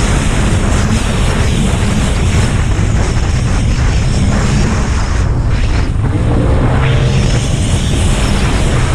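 Racing jet ski engine running hard at speed, buried in a loud, steady rush of wind and water noise.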